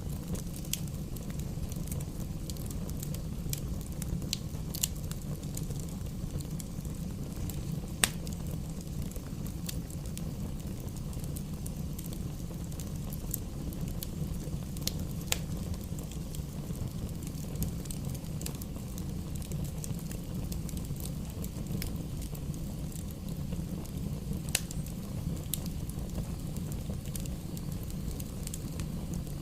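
Campfire burning, with scattered sharp crackles and pops over a steady low rumble; one pop about eight seconds in is the loudest.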